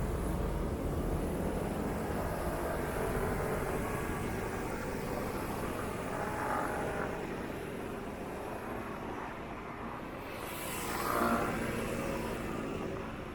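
Steady engine-and-road rumble of motor traffic, swelling briefly about six and a half seconds in and again, louder, near the end.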